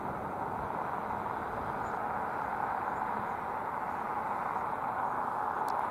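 Steady rolling hiss of a receding freight train of empty coke hopper cars, steel wheels running on the rails.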